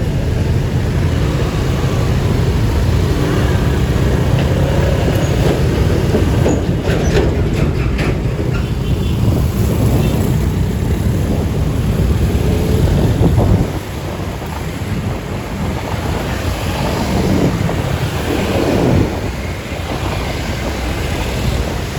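Steady vehicle noise with a heavy low rumble, which drops a little about two-thirds of the way through.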